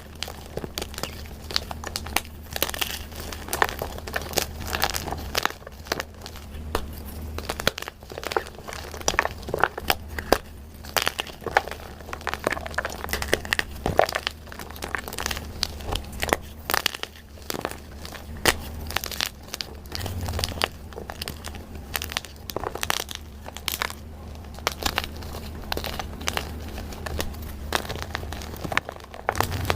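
Crunchy dyed gym chalk being crushed and crumbled, a dense run of irregular crunches and crackles over a low steady hum.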